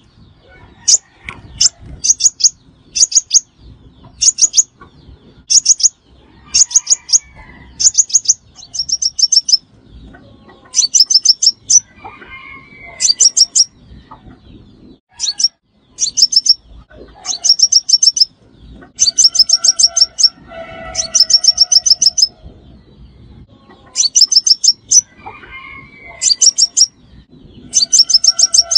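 Sunbird (the 'xác pháo' sunbird) calling over and over in short, high, rapid trills, one about every second, with lower, quieter notes heard between them now and then; a lure call used to draw wild birds in.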